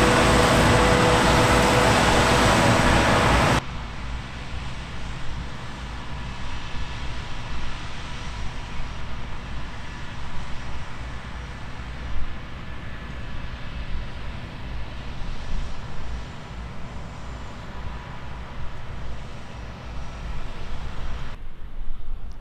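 Diesel engines of heavy beet harvesting and loading machinery running steadily. The sound is loud at first, then drops abruptly about three and a half seconds in to a quieter, more distant engine hum.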